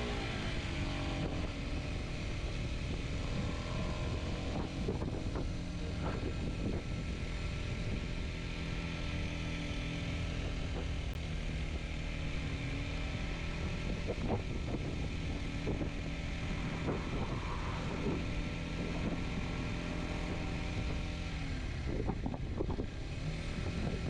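Kawasaki Z125's single-cylinder four-stroke engine running under way. Its pitch drops in the first second or so as it slows, holds fairly steady, then falls again near the end.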